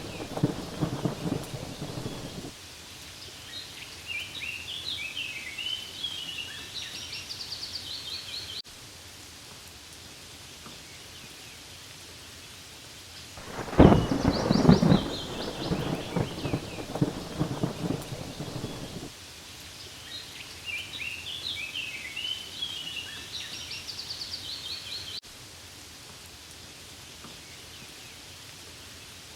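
Steady rain falling, with rolling thunder rumbling at the start and again about 14 seconds in, lasting several seconds each time. High chirping calls come between the rumbles.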